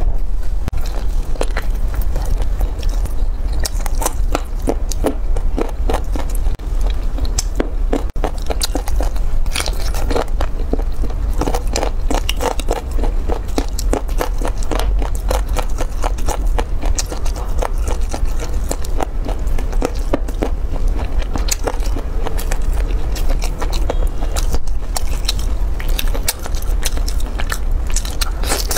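Close-miked eating: bites and chewing of braised pork ribs with crunchy cartilage, a dense run of sharp crunches and crackles over a steady low hum.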